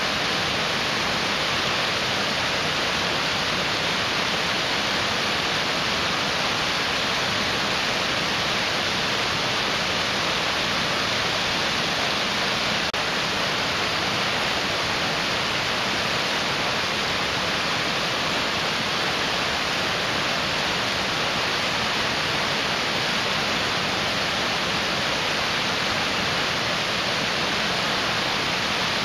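Mountain stream rushing: a steady, even hiss of fast-flowing water that does not change.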